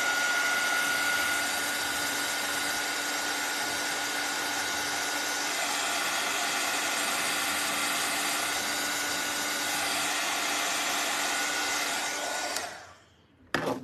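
Heat tool or hair dryer blowing steadily on freshly painted craft work to dry the paint, then switched off about twelve and a half seconds in, followed by a brief clatter near the end.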